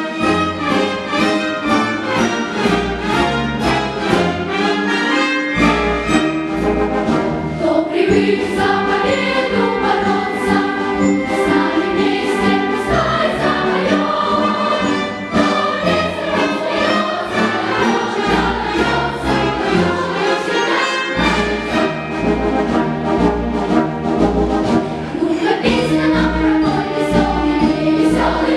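Children's choir singing a lively song together over an instrumental accompaniment with a steady beat.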